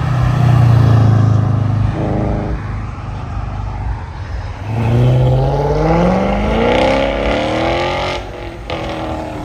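A car engine running loud and low, then accelerating hard about halfway in, its pitch climbing steadily for about three seconds before it drops off near the end.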